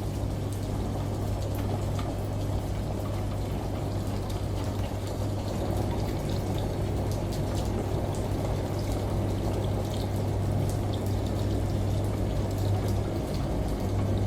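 Steady falling, splashing water with scattered drip ticks, over the constant low hum of a washing machine running.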